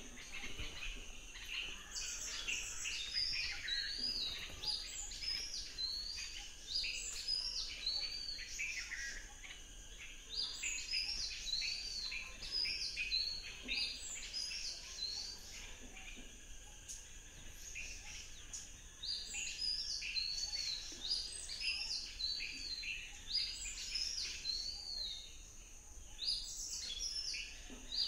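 Several birds singing and calling together: dense runs of short, high, repeated whistled notes that come and go in bouts.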